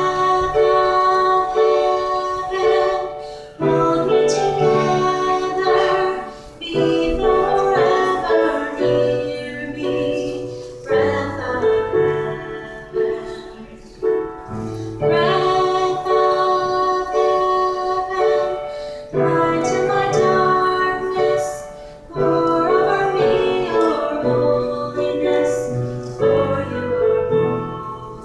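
A woman singing a song with piano accompaniment, in phrases a few seconds long.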